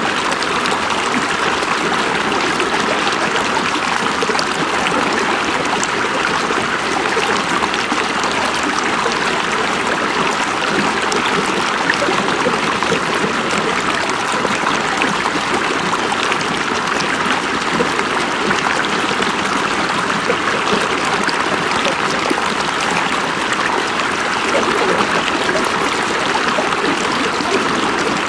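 River water running and splashing, a steady rush of flowing water with many small splashes over rocks.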